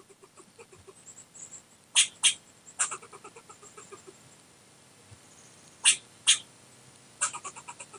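Recorded animal calls: a pair of loud, sharp calls about two seconds in and another pair near six seconds, each followed by a run of quicker, fainter repeated calls, with a fast series of calls near the end.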